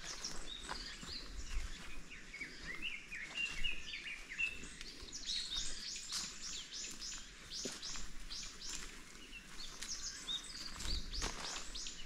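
Small birds singing: warbling chirps, then two runs of rapid repeated high notes, each note falling in pitch, about three or four a second.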